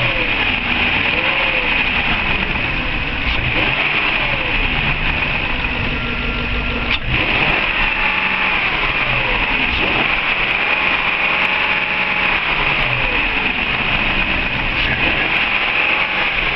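An engine running, its pitch rising and falling repeatedly.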